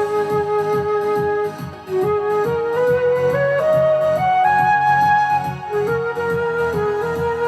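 Flute playing a pop melody over a karaoke backing track: a held note, a short break for breath about two seconds in, then a phrase climbing step by step to a higher held note and falling back.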